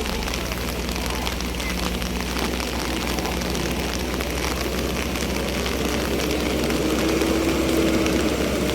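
Heavy rain falling steadily, with a vehicle engine running underneath that grows gradually louder toward the end as it comes closer.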